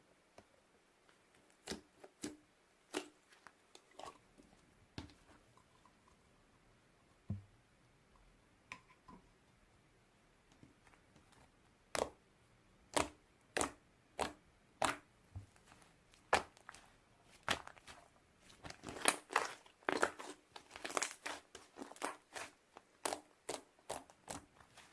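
Beer slime being squished and stretched by hand, giving sharp clicks and pops. They are scattered at first and come thick and fast from about halfway.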